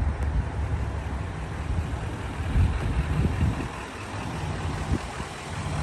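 Duramax 6.6 L V8 turbodiesel idling steadily, with one brief knock near the end.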